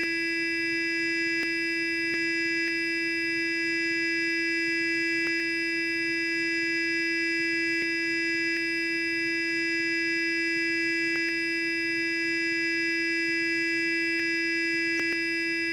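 Sonic electric toothbrush running, a steady buzz held at one pitch and level.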